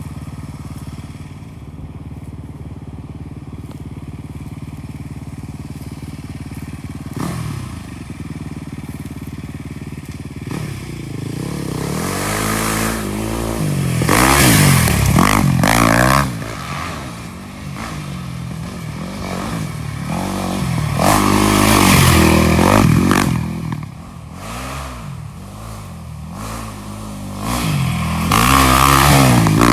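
Off-road vehicle engine running steadily, then revved hard from about ten seconds in. Its pitch rises and falls through several throttle runs, and it is loudest around the middle and again near the end.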